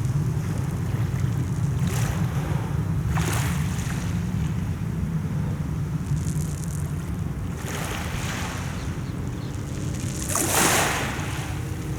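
Mediterranean sea waves washing onto the shore several times, the loudest wash about ten seconds in, over a steady low rumble.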